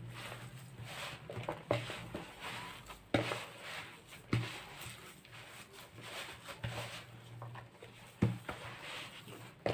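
Hands kneading a moist kofta mixture of minced meat, rice flour and bulgur in a bowl: soft, irregular squishing and patting, with a few sharp clicks.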